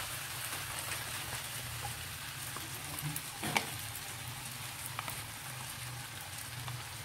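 Rice noodles frying in a hot stainless steel pan, a steady sizzle, with a few light clicks from the metal spoon in the pan.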